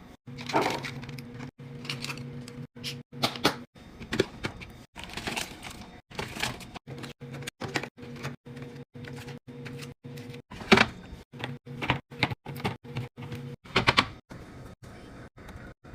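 Clattering and clicking of containers and packaging being handled and set down in a refrigerator: many short knocks and clacks in quick succession, over a steady low hum that stops near the end.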